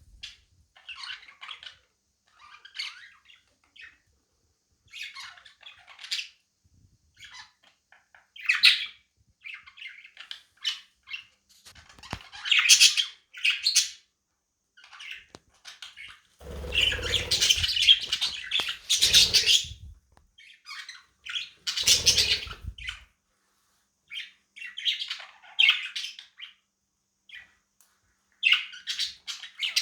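Budgerigars chirping and squawking in short, scratchy bouts, squabbling. There is a louder, longer burst of squawking mixed with low rustling about halfway through.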